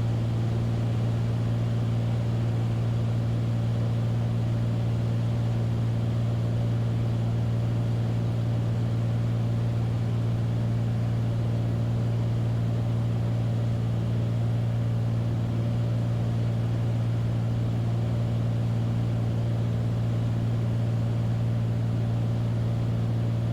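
Beechcraft Bonanza's piston engine and propeller running steadily in flight, heard from inside the cockpit as a low, even drone.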